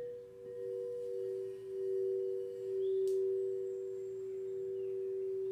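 Singing bowl ringing on, two steady pure tones with a slow pulsing swell and fade in loudness.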